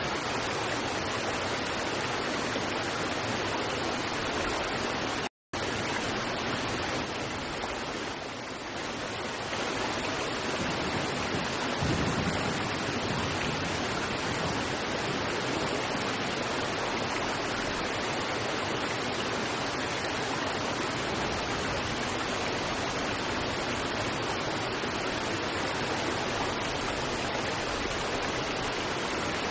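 River water rushing steadily over rocks, an even unbroken wash of sound. About five seconds in it cuts out completely for a fraction of a second.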